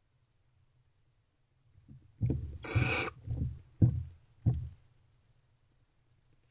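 Barn owls in a nest box: a short, harsh hissing screech among about five thumps of owls moving about on the box floor, all within a couple of seconds in the middle.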